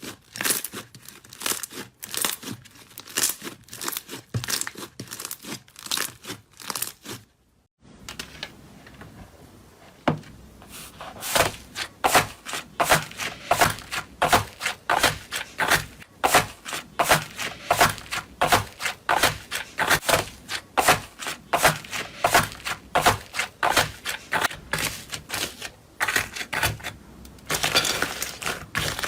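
Rapid crisp crunching and crackling of a crunchy material being crushed, about two to three crunches a second. It cuts out suddenly about seven and a half seconds in and picks up again a couple of seconds later.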